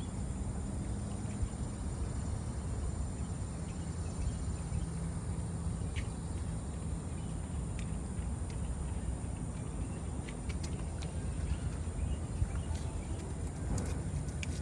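Steady outdoor ambience: a continuous high insect buzz over a low, even rumble, with a few faint ticks.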